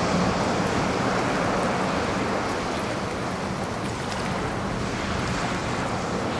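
Ocean surf: a steady rush of waves washing in, swelling and easing gently.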